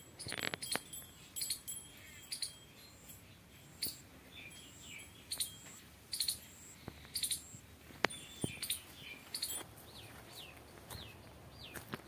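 Small birds chirping, with many short high chirps scattered throughout and a few quick falling calls repeated near the end. A few sharp clicks, the loudest about half a second in.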